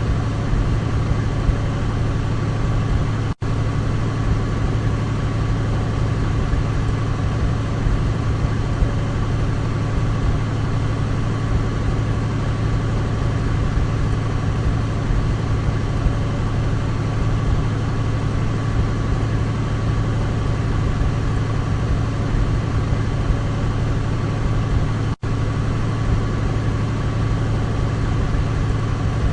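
Douglas DC-3's radial piston engines running at a steady drone. The sound drops out for an instant twice, about three seconds in and near the end.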